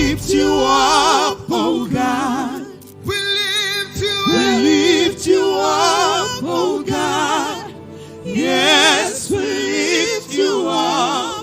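Gospel worship music: sung phrases of a second or two, the voices wavering with strong vibrato, over steady sustained low notes.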